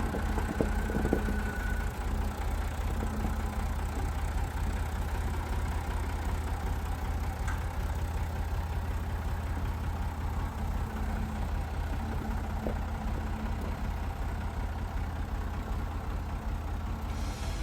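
Massey Ferguson tractor engine idling steadily, with a few short knocks, a couple of them about a second in.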